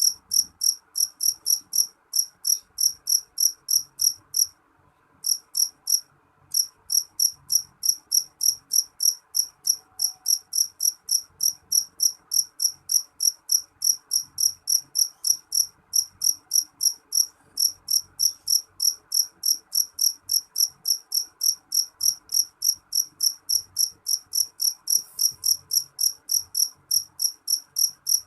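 A cricket chirping steadily, short high-pitched chirps about three a second, with a brief pause about five seconds in. A faint steady background hiss lies underneath.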